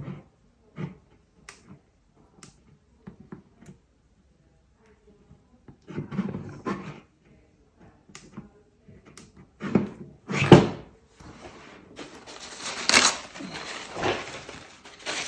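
Close handling noise from hand work on a metal detector's control knobs and glued caps: scattered small clicks and rustles, louder rubbing bursts about six and ten seconds in, then steady rubbing and scraping noise from about twelve seconds in.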